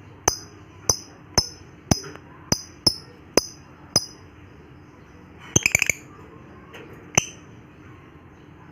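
Lovebird giving short, sharp, high-pitched chirps, about two a second for several seconds, then a quick rattle of several chirps together and one last single chirp.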